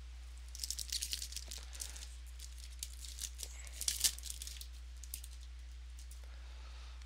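Trading-card pack wrapper being torn open and crinkled: quick bursts of crackly rustling, with the sharpest crackle about four seconds in.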